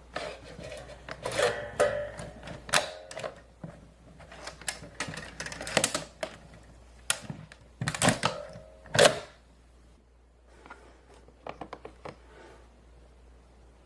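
Plastic clicks and clacks of a Play-Doh Transformers Autobot Workshop playset being handled and pressed as its mode is changed. There is a run of sharp knocks and rattles over the first ten seconds, then a few fainter clicks.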